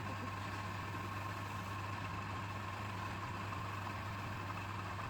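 Wood lathe's electric motor running steadily at speed: an even low hum with a thin whine above it, and no tool cutting.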